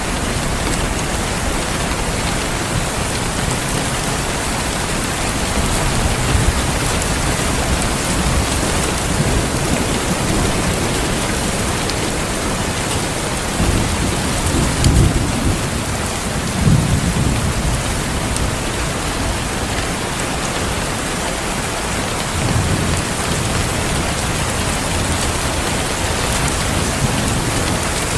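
Steady heavy rain with low rumbles of thunder swelling up now and then, the strongest about halfway through.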